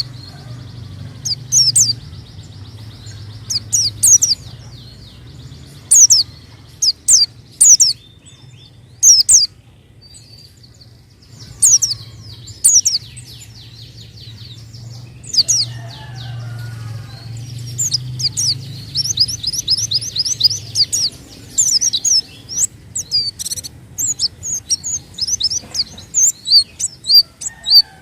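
White-eye (pleci) singing: clusters of sharp, high-pitched chirps and fast twittering runs, over a faint low steady hum.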